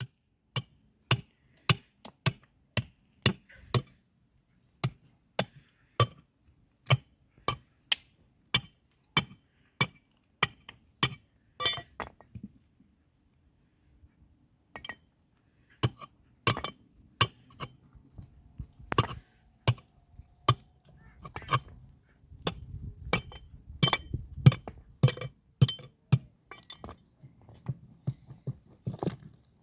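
A hammer striking stone with sharp clinks, about two blows a second, stopping after about twelve seconds. Uneven blows resume a few seconds later, with a low rumble under them for a while.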